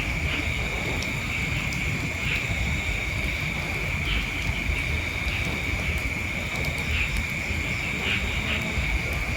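Steady, unbroken high-pitched insect chorus over a low rumble.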